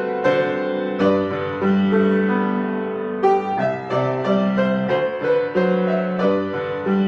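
Solo piano playing a slow, lyrical piece: a melody over sustained bass and chord notes, each note struck and left to ring.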